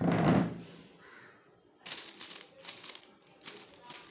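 Green parrot giving one loud, harsh squawk, followed from about two seconds in by a run of short scratchy rustling and crackling noises.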